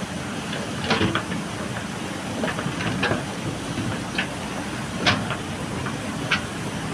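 JCB backhoe loader's diesel engine running steadily while it works gravel, with sharp metallic clanks and knocks every second or so.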